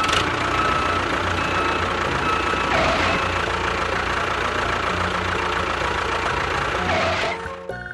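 An engine running steadily at idle. It starts abruptly and cuts off near the end.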